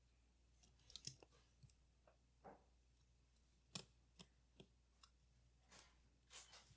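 Faint, irregular clicks and light taps of small tools against the metal parts of a Leica IIIF camera being taken apart, with a couple of brief soft scrapes.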